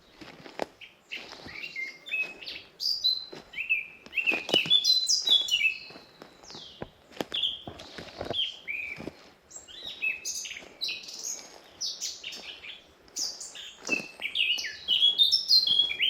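Forest songbirds singing: a steady run of short, high chirps and quick falling whistled notes, busiest about four to six seconds in and again near the end. A few soft footsteps on the path come through underneath.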